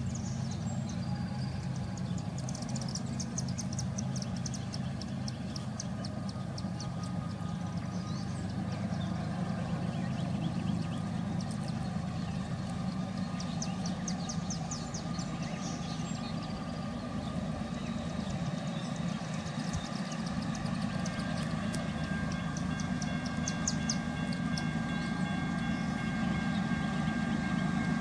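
Distant approaching freight train: a steady low rumble that grows slightly louder. Birds chirp in short trills now and then, and thin steady high-pitched ringing comes in about three quarters of the way through.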